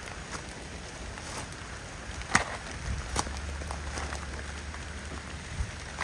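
Steady rain falling, with scattered sharp ticks of individual drops striking close by; the loudest tick comes about two and a half seconds in.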